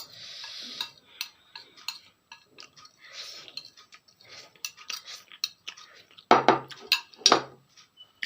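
Eating noodles from a bowl: utensils clinking and scraping against the dish in quick irregular clicks, with two louder knocks about six and seven seconds in.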